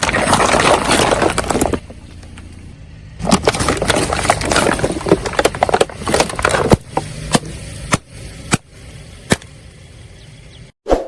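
Brittle objects crunching and cracking as a car tyre rolls over and crushes them, in two long loud bursts of crackling, then a few separate sharp snaps over a low rumble.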